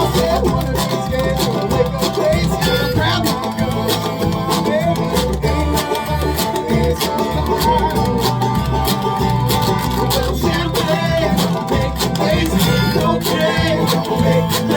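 Live folk string band playing an old-time blues number, with picked banjo over bass, and spoons clicking out a steady quick beat.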